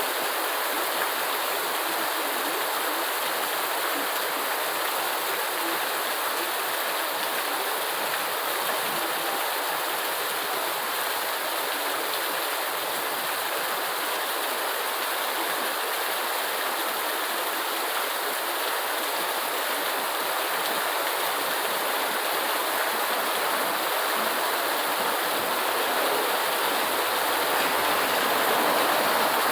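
Steady rain, an even hiss of falling water.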